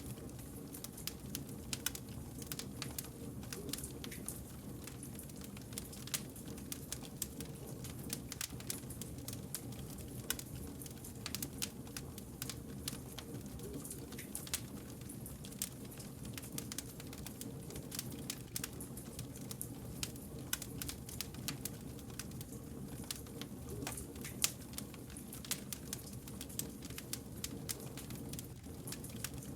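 Wood fire burning, with frequent sharp crackles and pops of the logs over a low, steady rumble of the flames.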